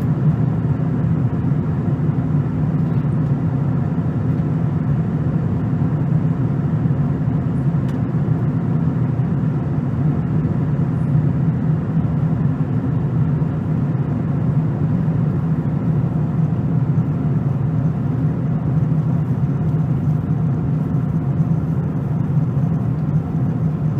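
Low, steady drone inside the cabin of a Boeing 777-300 airliner in flight: engine and airflow noise, even throughout.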